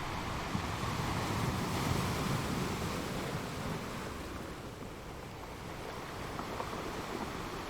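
Ocean waves washing ashore, one swell rising to a peak about two seconds in and then easing off as the surf continues.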